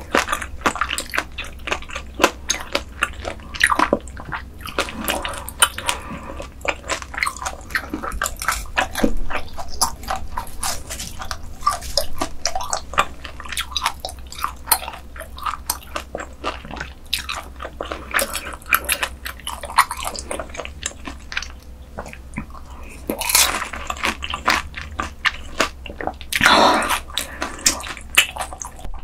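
Close-miked eating: a person biting and chewing food, with rapid crisp crunches and wet clicking mouth sounds. Two longer, noisier sounds come near the end.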